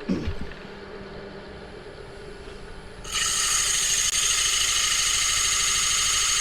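A wood lathe runs with a low hum and a short bump just after the start. About three seconds in, 80-grit sandpaper is pressed against the spinning green poplar blank, and a loud, steady hissing rasp of sanding sets in.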